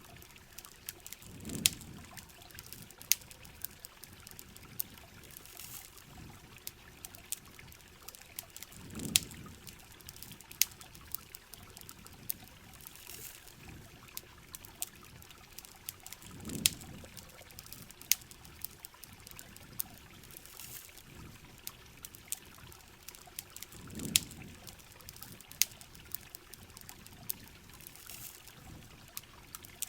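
Campfire crackling with sharp, scattered pops over the steady hiss of heavy rain. A low swell comes back about every seven and a half seconds.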